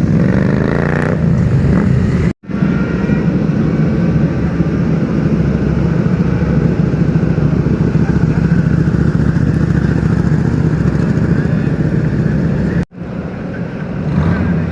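Sport motorcycle engines: one revs up with rising pitch, then after an abrupt cut a steady, loud engine note of a bike running for about ten seconds, cut off suddenly again near the end.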